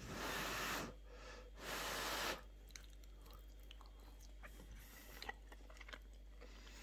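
A person eating a mouthful of stewed meat: two breathy puffs of air in the first couple of seconds, then faint, soft chewing clicks.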